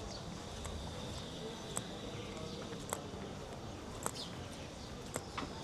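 Outdoor street ambience on a walk: a sharp click about once a second over a low background haze, with a faint steady high buzz and distant voices.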